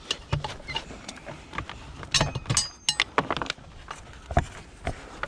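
Metal clicking, clanking and rattling as the motors are worked out of electric chairs with tin snips, with a few brief ringing clinks of metal about halfway through.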